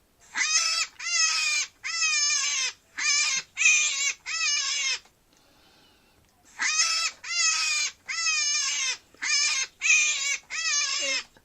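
Rabbit calling: two runs of six short, high calls, each falling in pitch, with a pause of about a second and a half between the runs.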